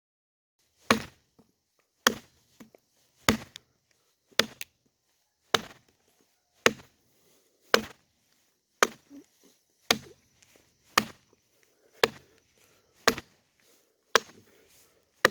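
Chopping into a green cottonwood log being hollowed for a dugout canoe: about fourteen sharp, even blows, roughly one a second.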